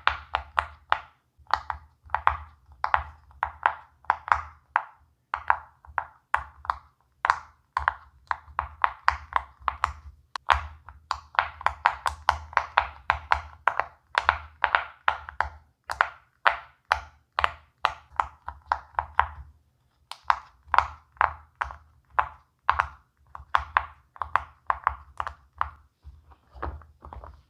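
Silicone push-pop fidget toy bubbles being pressed in, one after another, each giving a short sharp pop, about three to four a second in runs with brief pauses.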